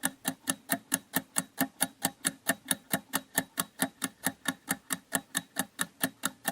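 Quiz countdown timer sound effect: a clock ticking steadily, about four ticks a second.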